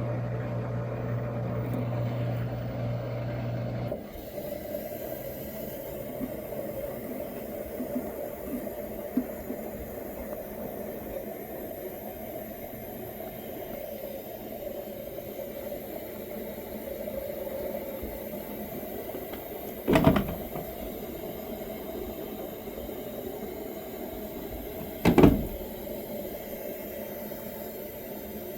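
Front-loading washing machine partway through its wash cycle: a steady motor hum stops abruptly about four seconds in, and a quieter, even churning with faint clicks follows. Two sharp thumps stand out, about twenty and twenty-five seconds in.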